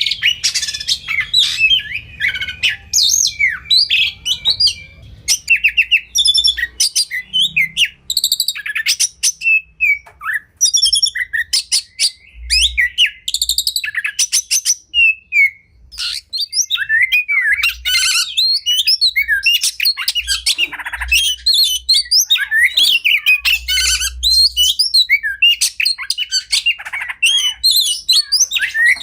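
Oriental magpie-robin (kacer) singing almost without pause: a fast, varied song of rapid clicking rattles, sliding whistles and chirps.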